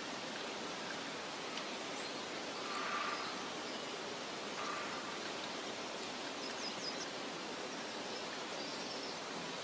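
Meadow ambience: a steady soft wind hiss, with a few faint, short bird chirps and a brief swelling sound about three seconds in.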